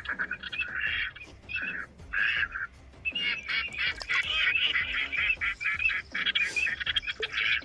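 Bird calling in quick runs of short, repeated cackling notes: a brief burst in the first second, then a longer unbroken run from about three seconds in.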